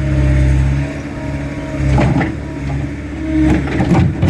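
Skid steer engine running hard, its pitch and load swelling and easing as it works, with a few sharp knocks of the machine against concrete blocks about two seconds in and near the end.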